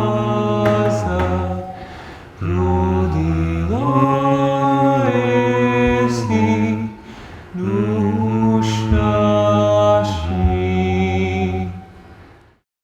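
Unaccompanied choir singing Russian Orthodox liturgical chant: sustained chords over a deep bass, in phrases with short pauses between them, fading out near the end.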